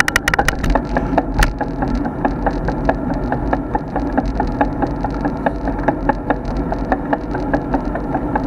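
A road bike being ridden, rattling over the road surface: a cluster of sharp clicks near the start, then a steady run of quick ticks over a low rumble.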